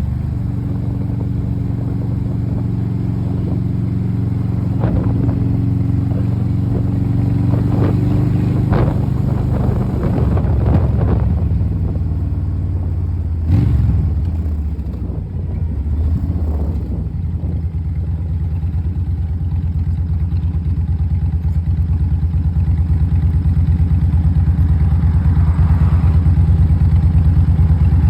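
Kawasaki Vulcan motorcycle engine running, with short clicking and clatter over it in the first half. About halfway through there is a sharp knock and the engine note drops, then it climbs steadily louder toward the end.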